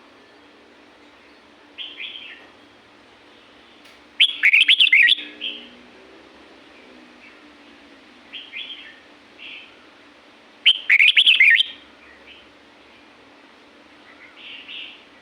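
Red-whiskered bulbul singing: two loud, rapid warbled phrases of about a second each, about four and eleven seconds in, with softer short chirps between them.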